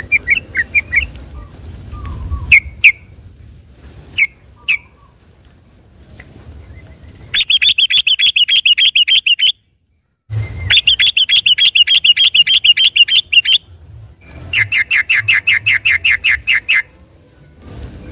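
Yellow-vented bulbul (trucukan) singing: a few short sharp calls, then three long runs of rapid repeated notes, each lasting two to three seconds, with brief pauses between.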